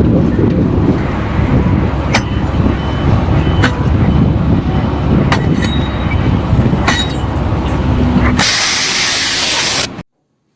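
Loud, low mechanical rumble of heavy machinery, with a sharp click about every second and a half. Near the end comes a loud burst of hissing, like air or steam released, before the sound cuts off.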